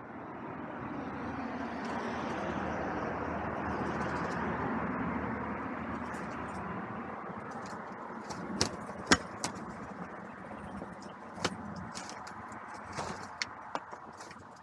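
A road vehicle passing, its noise swelling and then fading over several seconds. From about halfway through come a handful of sharp clicks and taps, the loudest about two thirds of the way in.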